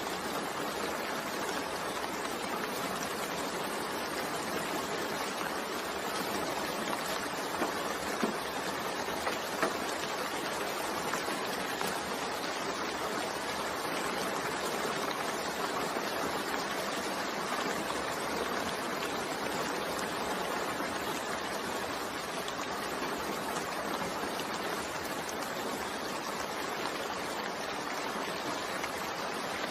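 Steady rain falling, an even hiss, with a few sharper drop-like ticks about a quarter of the way in.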